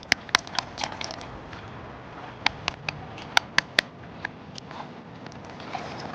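Sharp, irregular taps and clicks of a hard tool chipping at oysters stuck to rock. There are several in the first second, a quick cluster of five about halfway through, and a few scattered taps later, over a steady background hiss.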